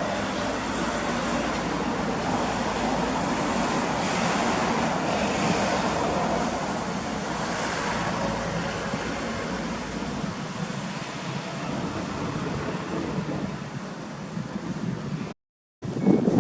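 Car engine running steadily, the Suzuki Kei Works' K6A turbo three-cylinder, with a wide even rush of noise over a low hum. The sound cuts out completely for a moment near the end.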